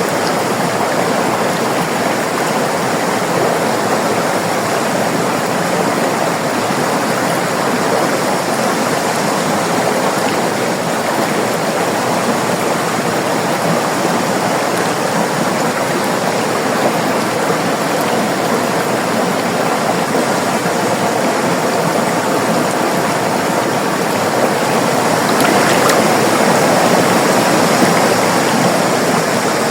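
River water rushing and babbling steadily, a dense even flow with a slight swell near the end.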